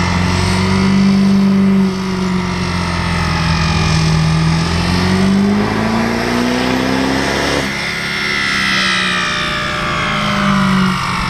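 Turbo diesel truck engine under full load on a chassis dyno. It holds a steady high pitch, climbs in pitch for a few seconds, then drops off suddenly about two-thirds through, leaving a high whine that falls away as it winds down.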